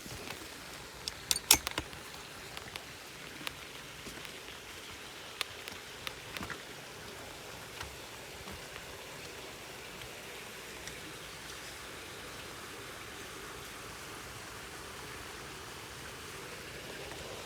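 Rain falling steadily with an even hiss, and sharp drips tapping on a nearby surface, a cluster of the loudest about one and a half seconds in. The taps thin out after about eight seconds, leaving the steady hiss.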